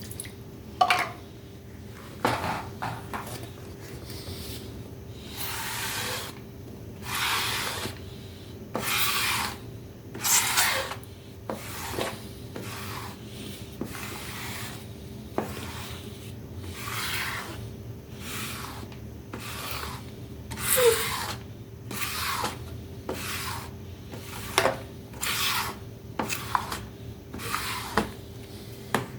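Irregular rasping strokes of abrasive rubbing on a hard surface, each lasting about half a second to a second, with a few sharp clicks between them and a faint steady hum underneath.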